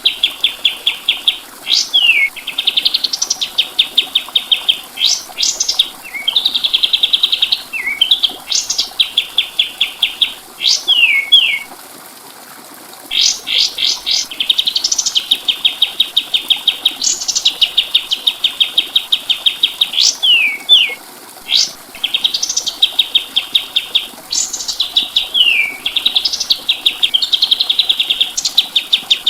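Kapas tembak songbird singing: high, rapid trills of evenly repeated notes broken up by quick upward and downward whistled sweeps. Phrases of a second or two follow one another closely, with one short pause about halfway through.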